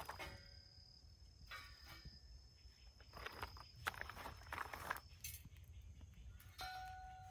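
Quiet, irregular crunching and rustling in several short spells, over a steady high insect trill that stops about five seconds in; a steady lower tone begins near the end.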